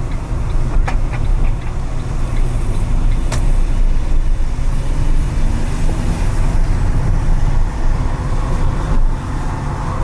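Car driving along city streets after rain: a steady low rumble of road and engine noise, with two sharp clicks about one and three and a half seconds in.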